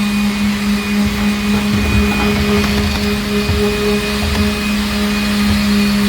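A steady machine hum, one constant low tone with fainter higher ones, with a few light knocks underneath.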